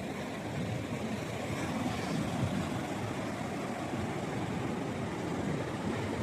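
Steady rushing noise of the seashore, with no distinct single event.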